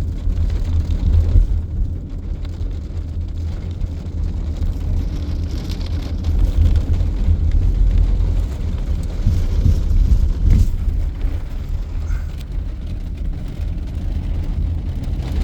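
Steady low road rumble of a moving car, heard from inside the cabin, with a faint knock about ten seconds in.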